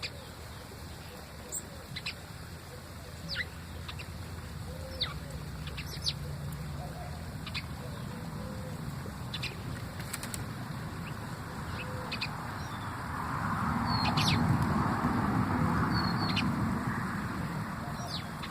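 Small birds giving short, sharp, downward-sweeping chirps every second or two, over a steady low background rumble. A broad rushing noise swells up about two-thirds of the way through, then fades.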